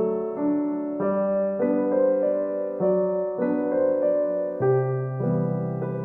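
Background piano music: a gentle, slow piano piece with notes and chords changing about every half second.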